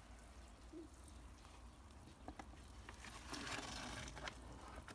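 Water from a plastic watering can's rose head sprinkling onto sandy soil and bricks, a faint pattering hiss that gets a little louder about three and a half seconds in. The water is wetting powdered hardening soil so that it sets.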